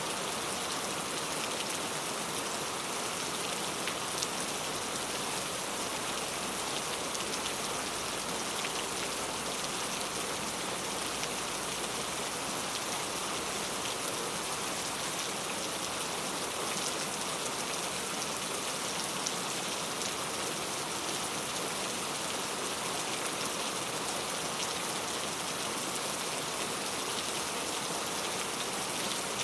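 Heavy rain falling steadily on a street, a dense even hiss with the fine patter of drops.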